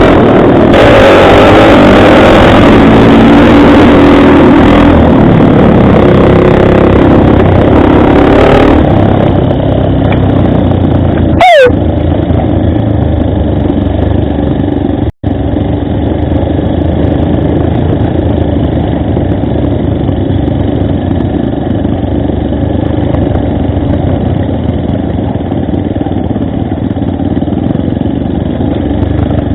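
Motorcycle engine running steadily while riding, with wind noise on the microphone for roughly the first nine seconds. The sound changes abruptly about a third of the way in and cuts out for an instant about halfway.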